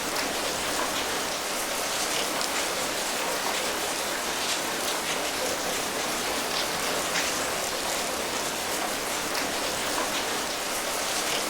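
Steady rain falling, an even hiss with many separate drops pattering through it.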